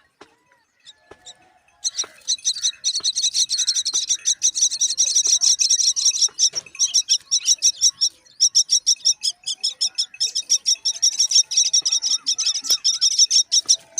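Common myna nestlings begging to be fed: a rapid, insistent run of high-pitched chirps, several a second, starting about two seconds in and going on with only short breaks.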